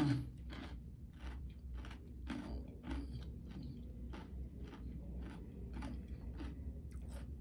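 A person chewing crunchy food with the mouth closed, close to the microphone, with a crisp crunch two or three times a second.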